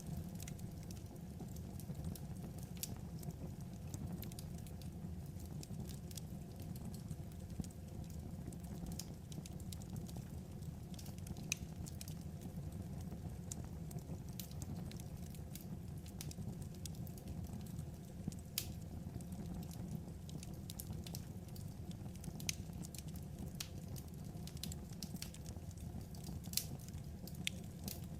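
Wood fire crackling: scattered sharp pops and snaps, irregular and some louder than others, over a steady low rumble.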